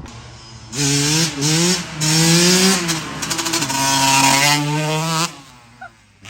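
2001 Yamaha YZ125 two-stroke dirt bike being ridden, its engine revving with the pitch rising and falling several times. It comes in loud about a second in and drops away sharply near the end.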